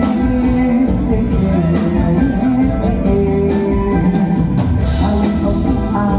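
Live band playing Thai luk thung / mor lam music, with a steady drum-kit beat under sustained melody instruments.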